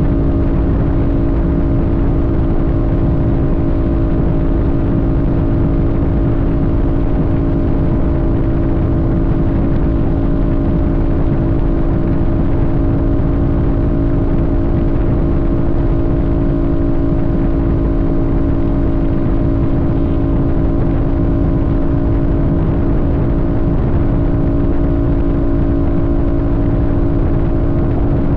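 Sportbike engine running at a steady speed while cruising, its drone holding one pitch, over a low rush of wind and road noise.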